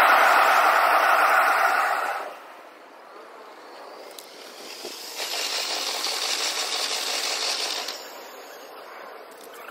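Electric trains running on the tracks below, heard at six times normal speed as a high, rushing hiss. The loud rush stops about two seconds in, and a second, higher hiss rises from about five seconds and cuts off near eight seconds.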